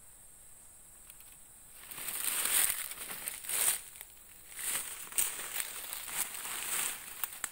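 Rustling and crackling of leaves and brush in several bursts, starting about two seconds in. Under it runs a steady high-pitched insect drone.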